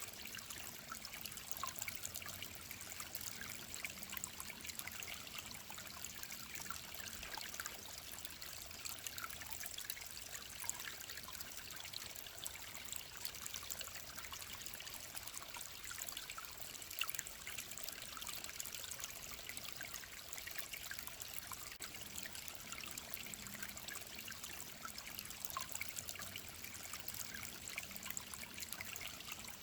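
Clear mountain stream trickling and babbling over stones, a steady light splashing.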